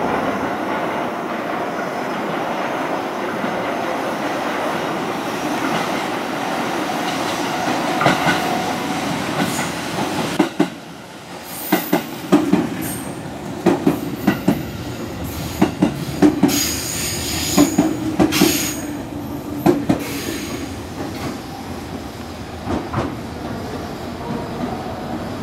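Electric multiple-unit passenger train running along the platform. About halfway through, its wheels clack over rail joints and points in an irregular run of sharp knocks, with brief high wheel squeals.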